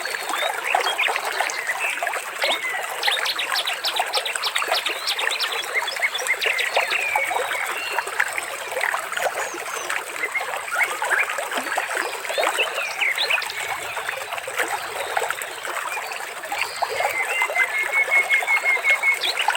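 Water trickling and splashing steadily, with small birds chirping over it. Near the end comes a rapid run of evenly repeated high notes.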